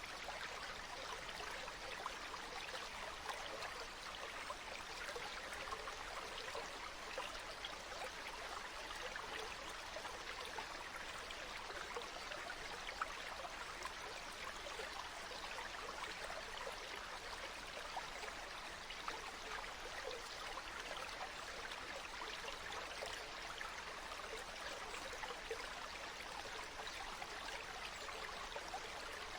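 Flowing water in a stream, a steady babbling and splashing with small droplet ticks here and there.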